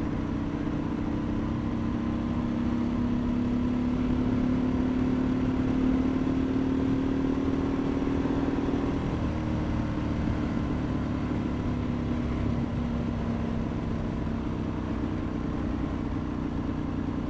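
Ducati 1098S V-twin with a full Termignoni carbon exhaust running under steady throttle at road speed, its note rising gently and then dropping a little about nine seconds in, over a constant rush of wind noise.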